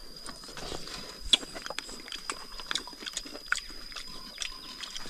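A person eating close to the microphone: irregular wet chewing and smacking with small clicks. A faint steady high whine sits behind it.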